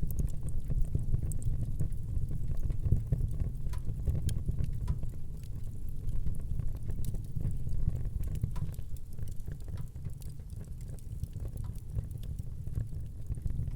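Fire burning in a fireplace: a steady low rumble of flames with frequent small irregular crackles and pops.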